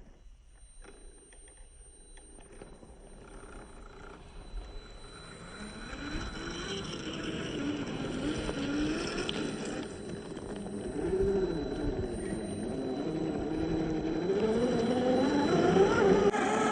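Electric motor and gears of a scale RC crawler whining, the pitch rising and falling with the throttle. It starts faint and grows louder from about five seconds in.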